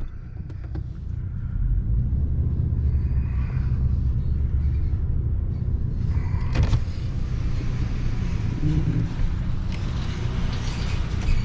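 Car engine running, heard as a steady low rumble, with a single sharp knock about six and a half seconds in.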